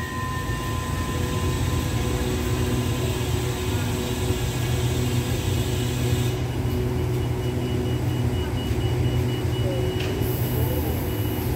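Passenger coaches of an express train rolling slowly past along the platform: a steady low rumble of wheels on rail, with a faint even hum over it.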